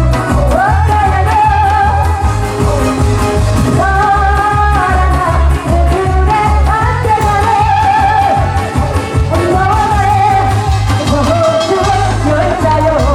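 Singing over loud amplified backing music with a steady, heavy bass beat.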